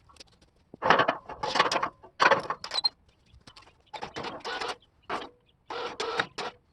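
Metal mechanism ratcheting and rattling in about six short, irregular spurts.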